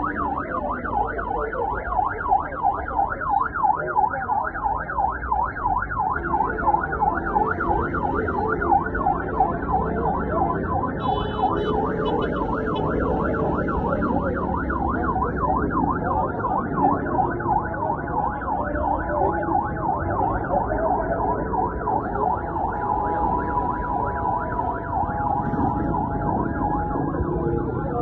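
Emergency vehicle siren sounding, a fast rising-and-falling warble that repeats several times a second and turns to steadier tones near the end.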